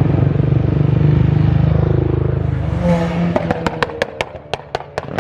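Modified car engine revving hard, then the throttle closes and the exhaust lets off a rapid run of about a dozen sharp pops and crackles over the last two seconds.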